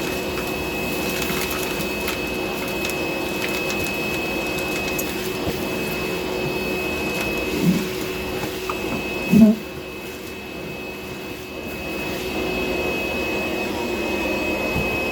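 DeWalt DCV581H cordless wet-dry vacuum running steadily with a high whine, sucking up sand and K1 aquarium filter media. There are two short knocks about halfway through.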